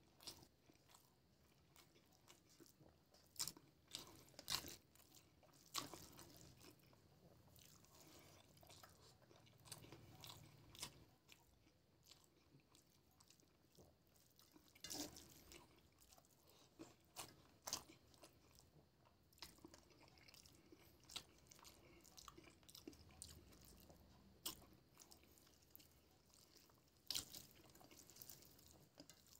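Faint close-up chewing and wet mouth sounds of a person eating rice mixed with egg curry by hand, broken by scattered sharp clicks and smacks, as fingers work the rice on a steel plate.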